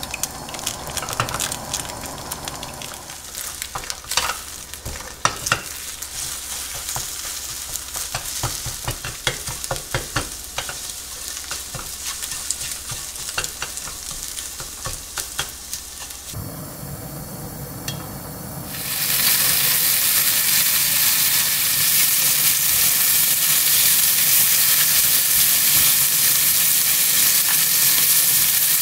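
Silicone spatula stirring eggs in a nonstick frying pan as they scramble, with a light sizzle and frequent short scrapes and taps. After a brief lull, bacon strips start sizzling loudly and steadily in the hot pan.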